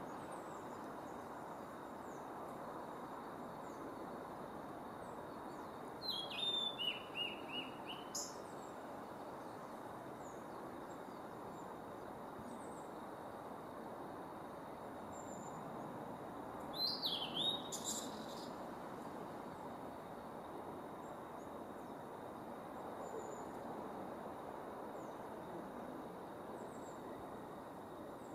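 Male blue-and-white flycatcher singing: two brief song phrases of high whistled notes, one about six seconds in and one about seventeen seconds in, each lasting a second or two. A steady background hiss runs underneath.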